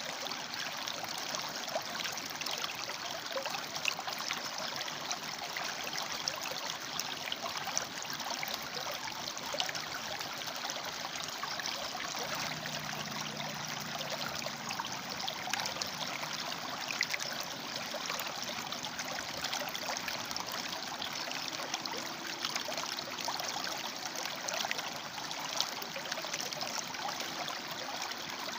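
River water flowing and splashing over rocks: a steady, continuous rush with fine bubbling detail.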